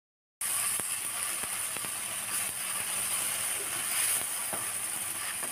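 Ground chilli paste, garlic and ginger sizzling in hot oil in a wok, stirred and scraped with a wooden spatula, with a few light knocks of the spatula on the pan. The paste is being sautéed until the oil separates.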